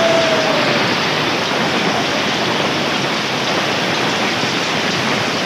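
Heavy rain mixed with hail pelting the road and vehicles: a dense, steady noise with no letup.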